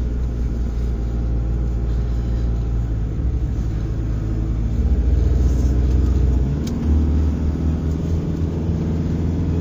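Car engine and drivetrain droning low and steady, heard from inside the cabin while driving across beach sand; the engine note shifts about six and a half seconds in.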